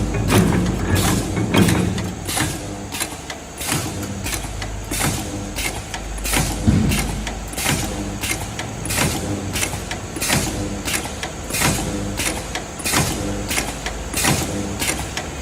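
Automatic steel wire ring bending and welding machine running: a steady motor hum under a sharp clack that repeats roughly once a second as the machine cycles.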